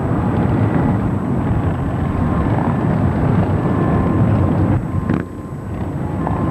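Many motorcycle engines rumbling together as a large procession of bikes rides past, with a short lull about five seconds in.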